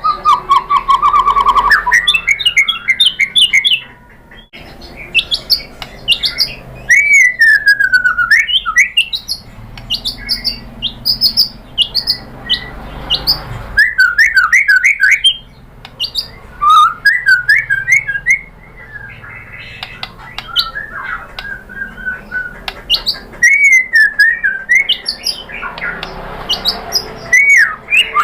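White-rumped shama (murai batu) singing a loud, varied song of fast trills, whistled notes sliding up and down in pitch, and harsh chattering notes, in bursts with short pauses between.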